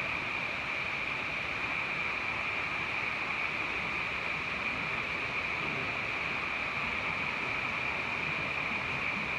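Water cascading steadily down a small sandstone waterfall, an unbroken rushing.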